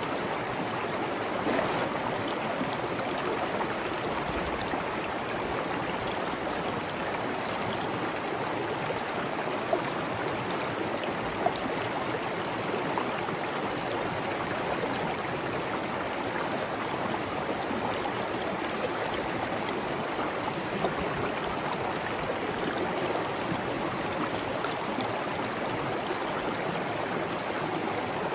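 Flowing stream water running steadily, with small splashes and trickles now and then.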